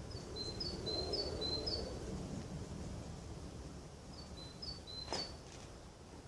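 A small songbird repeating a short two-note phrase, high then slightly lower, in two bursts of song. A soft rustling sounds in the first two seconds, and a sharp click comes about five seconds in.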